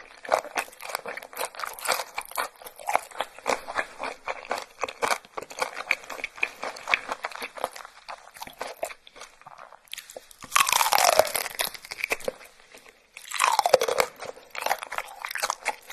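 Close-up eating sounds of crunchy food: rapid crackling chewing for most of the time, then two loud crunching bites about ten and thirteen seconds in.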